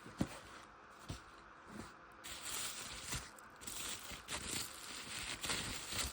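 A VHS tape and its packaging being handled: a few light knocks and clicks, the sharpest about a quarter second in, with rustling and crinkling of packaging.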